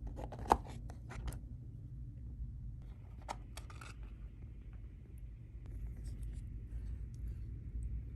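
Cutlery and a takeaway food box being handled while eating: a sharp click about half a second in, a few lighter clicks, then scraping about three seconds in, over a steady low room hum.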